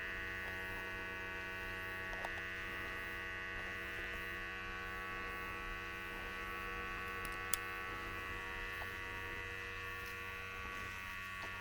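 A small motor or pump runs with a steady hum made of several fixed tones. There is a single sharp click about seven and a half seconds in.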